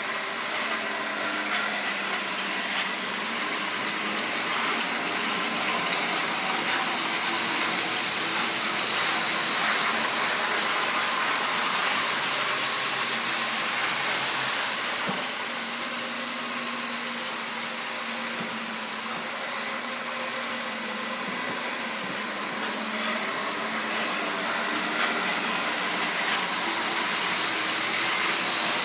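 Model railway train running on the track: a steady whir of the motor and rolling wheels that swells, eases off after the middle, and builds again near the end, like a train circling the layout.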